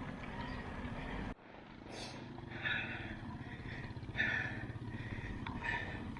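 A motor vehicle engine running steadily under a rumble of wind and road noise. The sound cuts off abruptly about a second in and picks up again as a steadier low engine hum.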